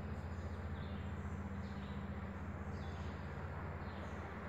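Faint bird chirps, short high notes falling in pitch roughly once a second, over a steady low hum.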